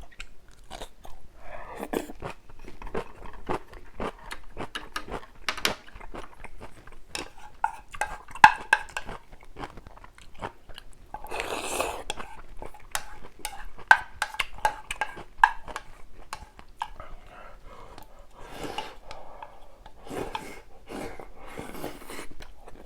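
Close-miked eating of spicy ramyun and kimchi: chewing and biting with wet mouth sounds, and utensils clicking against the bowl, as many short irregular clicks and a few longer noisy bursts.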